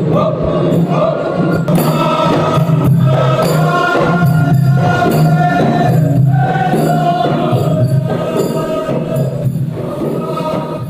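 Music: a group of voices singing together.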